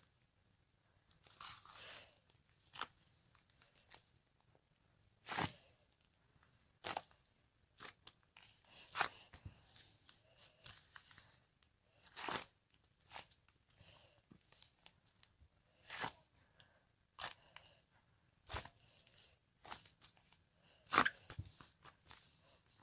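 Slime being squeezed and pressed by hand, giving sharp crackling pops and clicks at irregular intervals, roughly one every second or so.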